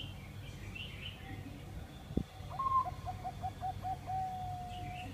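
Zebra dove (merbok) cooing: a quick run of about eight short, evenly spaced coos ending in one long held note. A short knock comes just before the song begins.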